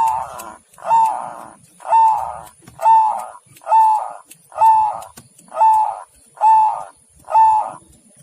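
Zebra dove (perkutut) cooing: nine loud, evenly spaced notes, about one a second, each rising and falling slightly in pitch.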